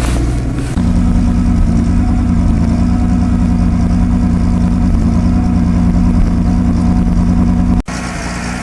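Chrysler Sebring's engine running steadily just after a cold start at about minus 28 °C, its note stepping up a little about a second in. The owner says it has a little misfire this morning. A sudden break comes near the end, after which it is quieter.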